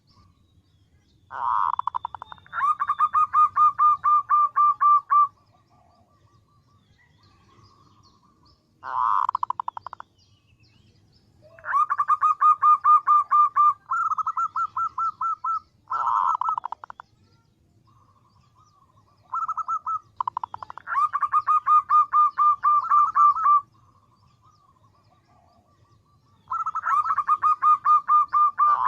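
Female zebra dove (perkutut) calling: bursts of rapid, evenly repeated notes, each burst lasting a second or a few seconds, coming about every few seconds with quiet gaps between them. This is the female's call to males, used as a lure for trapping males.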